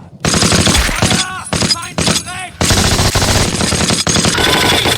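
Rapid automatic gunfire from WWII small arms in a film battle scene: loud, dense strings of shots starting a moment in, with brief breaks between bursts.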